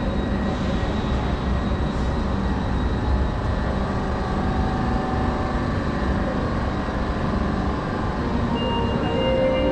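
Steady low rumble of trains standing at a railway station platform, with a few steady tones joining near the end.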